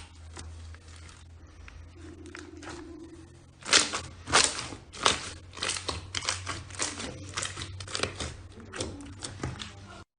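Slime being pressed and worked by hand, making sharp crackling pops: a few faint ones at first, then loud pops coming several a second from about four seconds in. A steady low hum runs underneath, and the sound cuts off abruptly near the end.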